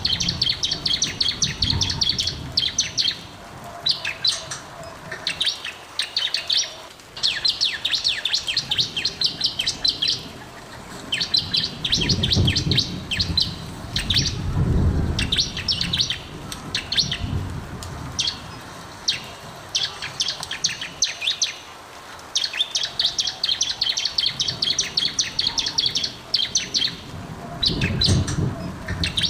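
Bar-winged prinia (ciblek) singing: bursts of rapid, chattering high notes a few seconds long, repeated with short pauses. This is a loud, lively song of the kind played to prompt caged birds into singing.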